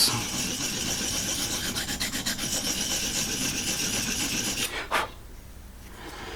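Abrasive of a Vipersharp guided sharpening system being stroked along a knife edge to set its secondary bevel: a continuous rasping scrape that stops near the end, followed by a single sharp click.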